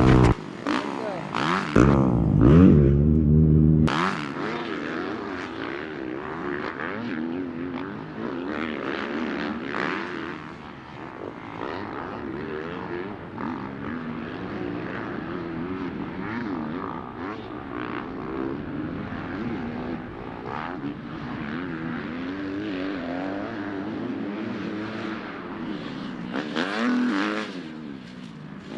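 Dirt bike engines racing around a track, revving up and down constantly through gear changes and throttle. The engines are loudest for the first few seconds, then carry on a little quieter.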